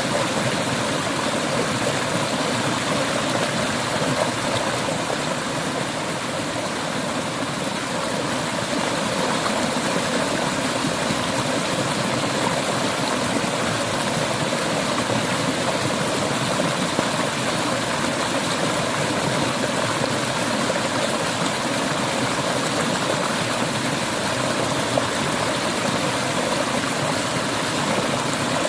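Clear river water flowing and babbling over stones in a steady, even rush.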